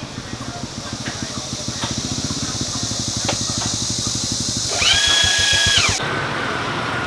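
A motorbike engine running close by, its fast pulsing growing louder as it approaches, with a horn sounding for about a second near five seconds in.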